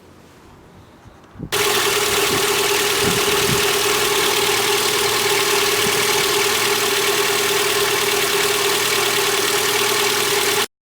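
Lada Granta's 8-valve four-cylinder petrol engine running at a steady idle after the oil change. It comes in suddenly about a second and a half in, with a steady hum, and cuts off abruptly near the end.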